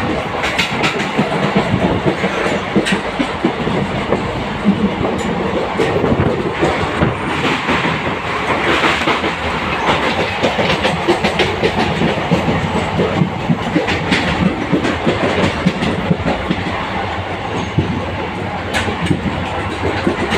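NMG rake of converted ICF coaches running through a curve, its wheels clattering steadily over the rail joints with a continuous running rumble.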